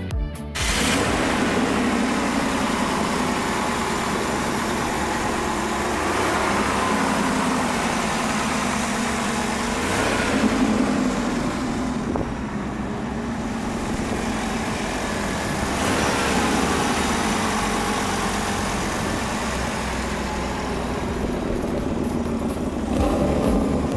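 Car engine idling steadily through side exhaust pipes.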